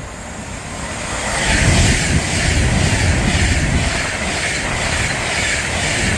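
Avanti West Coast Class 390 Pendolino electric train passing through the station at speed. Its loud, steady rush of wheels and air builds over the first second and a half, then holds.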